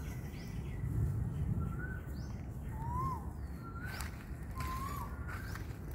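Birds calling: short whistled notes that rise and fall, repeating about once a second, with fainter higher chirps, over a steady low background rumble.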